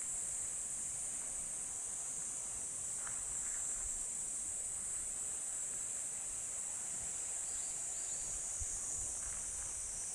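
A steady, high-pitched chorus of insects, with a few faint short sounds over it.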